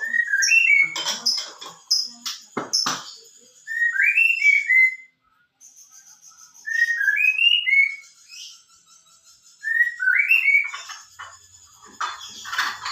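White-rumped shama (murai batu) singing: the same short phrase of clear whistled notes, repeated four times with pauses, and thin high chirps in the first few seconds. Two sharp knocks come a little before three seconds in.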